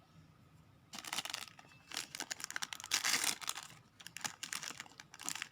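Small plastic blind bag torn open and crinkled by hand, with dense crackling and rustling starting about a second in.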